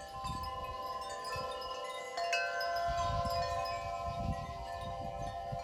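Wind chimes ringing in gusty wind, many long, overlapping tones struck again and again, with one sharper strike about two seconds in. Low wind rumble on the microphone swells and fades underneath.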